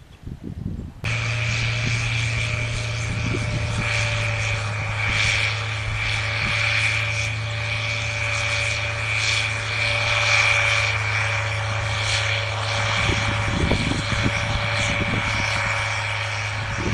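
Steady mechanical drone: a low hum with a higher whine over it, cutting in abruptly about a second in and then holding unchanged.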